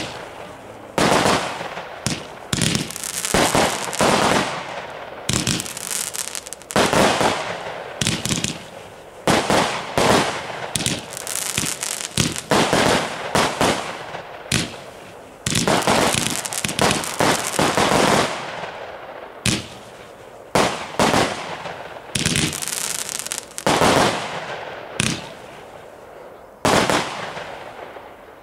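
Category 4 aerial fireworks bursting in the sky one after another, a sharp bang about every second, each fading away over a second or so.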